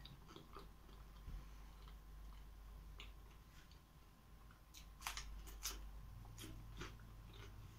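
Faint close-up eating sounds: a person chewing with scattered small wet mouth clicks, and a quick cluster of sharper clicks about five seconds in.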